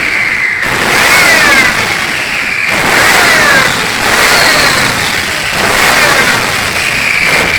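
Racing diesel truck engine revving over and over, its pitch dropping back after each rev, about every one to two seconds.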